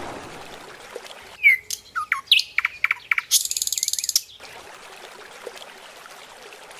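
Birds chirping: a run of quick whistled chirps that rise and fall in pitch, then about a second of high, fast buzzy trilling. It starts and stops abruptly, with only a faint hiss around it.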